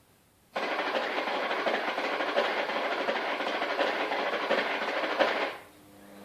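Bosch Roxx'x vacuum cleaner running with a harsh, rattling noise that starts suddenly about half a second in and stops about five seconds later.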